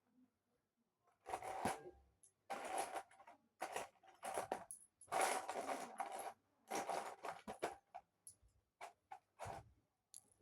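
Plastic Lego pieces being handled and rummaged through: a series of short rattling, rustling bursts, some lasting about a second, with small clicks between.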